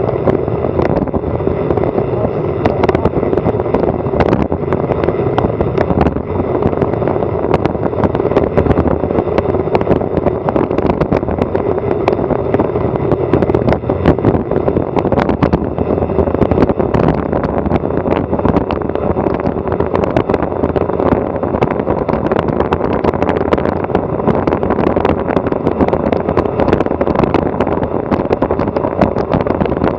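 Loud, steady rush of wind across an action camera's microphone during a fast downhill bicycle ride, with frequent short clicks and knocks throughout.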